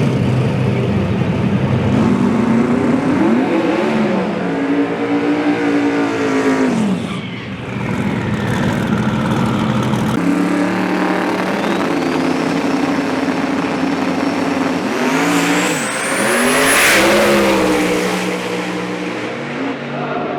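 Drag race car engines revving hard, the pitch climbing and then dropping off twice, with a thin high whine rising in the second half.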